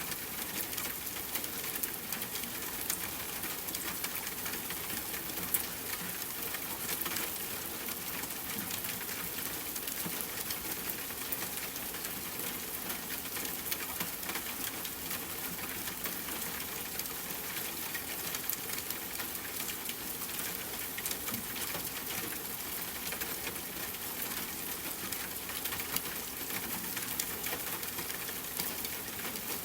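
Steady rain falling, with a campfire crackling: many small sharp ticks scattered irregularly through the even hiss of the rain.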